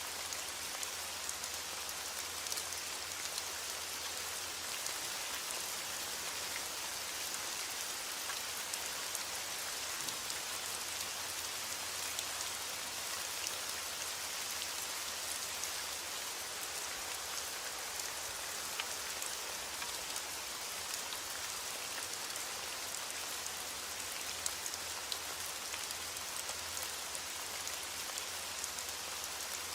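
Steady rain falling: an even hiss of many drops, with single drops ticking out now and then.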